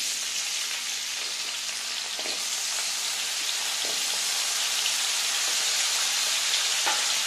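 Cut potato pieces sizzling as they fry in hot oil in a kadhai, a steady hissing sizzle that grows slightly louder as more pieces are tipped in.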